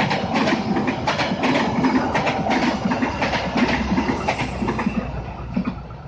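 A train rolling past, its wheels clacking over the rail joints two or three times a second over a steady rumble. It fades away near the end.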